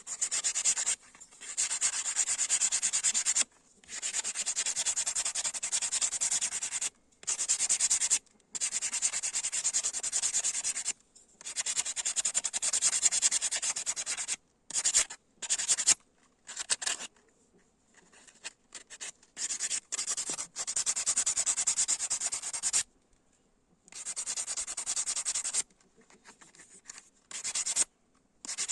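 Abrasive sanding of the chainsaw-bar knife, a scratchy hiss in spells of one to three seconds broken by short pauses, turning into shorter, choppier scrapes in the second half.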